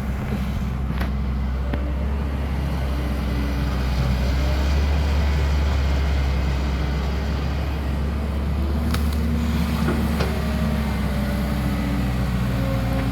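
Caterpillar E120B hydraulic excavator's diesel engine running steadily under working load, swelling a little twice, with a few sharp knocks.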